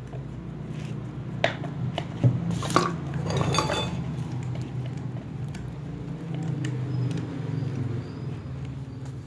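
Metal parts of an electric water pump clinking and knocking as they are handled and fitted together, with a cluster of clinks about two to four seconds in. A steady low hum runs underneath.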